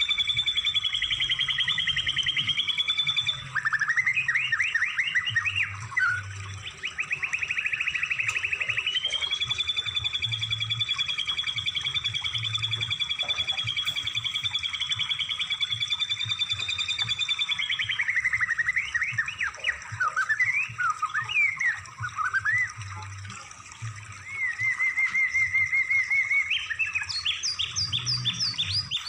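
Recorded songbird song played as tutor material for training cage birds: long, rapid buzzing trills alternating with sweeping whistled notes and fast series of rising chirps.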